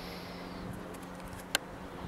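Faint, steady rushing of a distant TGV high-speed train running on the line, with one sharp click about one and a half seconds in.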